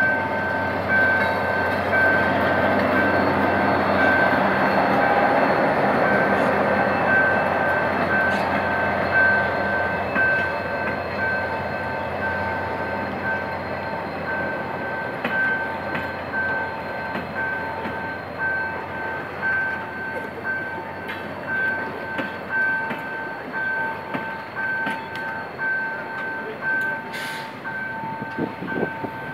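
GM GT22CW-2 diesel locomotive passing at low speed with its engine rumbling, followed by its passenger coaches rolling along the rails; the engine fades after about ten seconds, leaving the rolling noise of the coaches. Throughout, a level-crossing warning signal beeps steadily in two tones.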